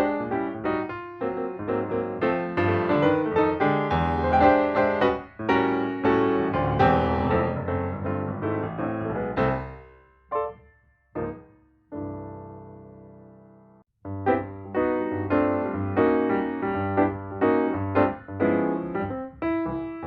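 Background piano music playing quick runs of notes. A little before halfway it thins out to a few short notes and one held note that fades away, then the quick playing starts again.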